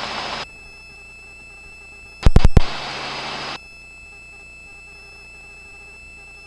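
Helicopter intercom audio: a steady electronic hum with faint fixed whine tones. It is broken by blocks of hiss that switch on and off abruptly as a headset microphone opens, the second coming about two seconds in, straight after three loud clicks, and lasting about a second.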